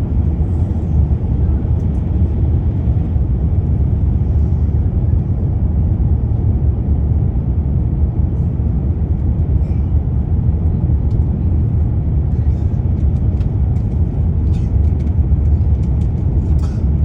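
Steady low roar inside an airliner cabin in flight, from the engines and the air rushing past. A few faint ticks come over it in the later part.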